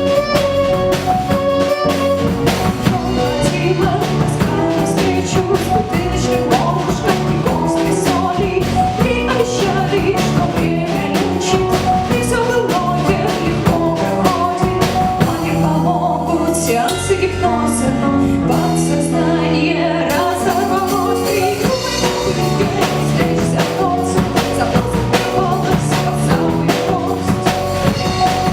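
A live band playing an upbeat song with a drum kit. The drums' top end drops away for a few seconds past the middle, then the full band comes back in.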